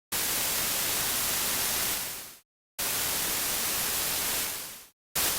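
White noise synthesized in Native Instruments Absynth 5 by an FM oscillator with noise wavetables as both carrier and modulator, FM index maxed. It is played as separate key presses: two notes of about two seconds each, each holding steady and then fading out, and a third starting near the end.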